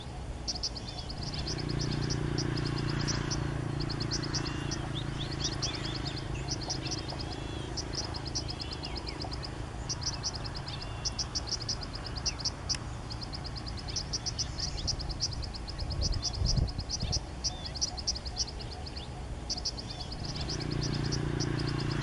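Small birds singing and calling: high, rapid pulsing trills repeated almost without pause, with short chirping notes below them. A low steady hum sits under them for the first half and again near the end.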